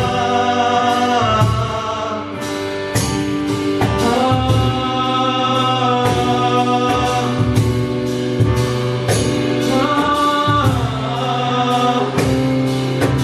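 Live band music: long held wordless singing with several voices over sustained chords and regular drum hits.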